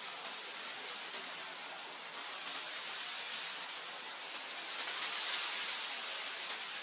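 Wind blowing through grass, a steady hiss that swells in a gust about five seconds in.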